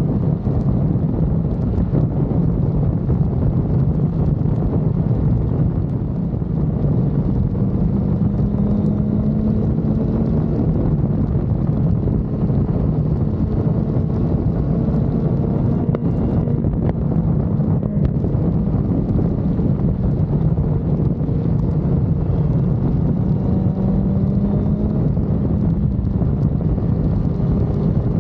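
Sport motorcycle riding at speed, with heavy wind rushing over the microphone and the engine note underneath, its pitch rising and falling as the throttle opens and closes.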